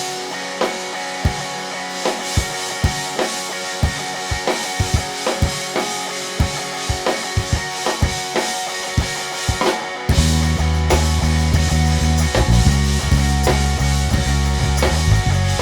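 Instrumental intro of a rock band playing live: a drum kit keeps a steady beat under sustained chords. About ten seconds in, a deep bass line comes in and the music gets louder.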